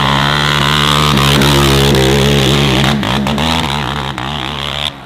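Dirt bike engine running loud at steady, sustained revs, its pitch wavering slightly in the second half, cutting off suddenly near the end.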